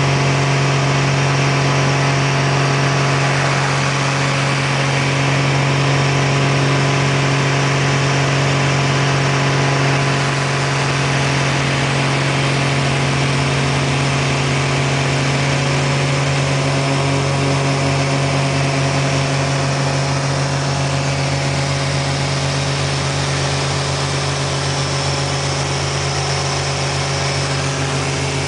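Airplane engine running steadily in flight after a midair restart, a constant drone that barely changes in pitch or loudness.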